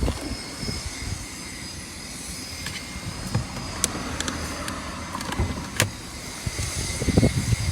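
A few sharp clicks and knocks over a steady low vehicle rumble: handling noise as the Lamborghini Urus's hood is released and lifted.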